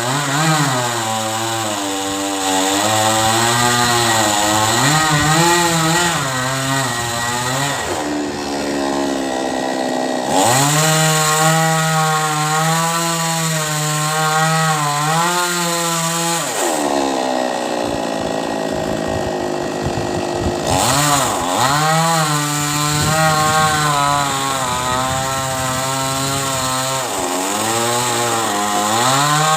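Chainsaw engine running and cutting through a coconut palm trunk, its pitch rising and falling with the load. It drops lower for a few seconds about two-thirds of the way in, then climbs again.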